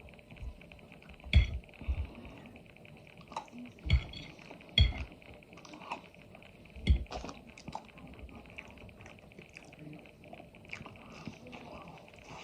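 A person eating chicken, close to the microphone: scattered sharp clinks and knocks of tableware among quieter eating noises, the loudest about a second and a half, four, five and seven seconds in.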